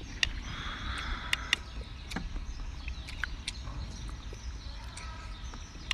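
A person chewing a mouthful of chili-coated seafood close to the microphone, with sharp wet mouth clicks and smacks scattered throughout, over a low steady rumble.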